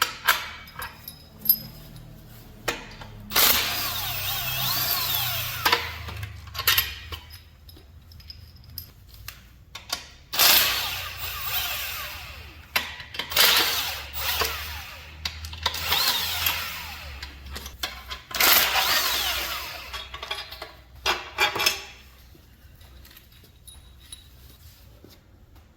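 A handheld power tool runs in about five bursts of a few seconds each, its motor pitch sliding up and down, with sharp metallic clicks and clinks between the bursts.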